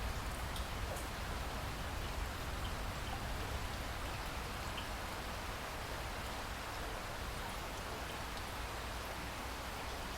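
Steady rain falling, an even hiss with a few scattered drops ticking.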